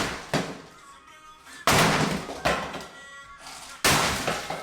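Heavy demolition thuds while cabinetry is being torn out: two hard blows about two seconds apart, each trailing off, with a lighter knock between them, over background music.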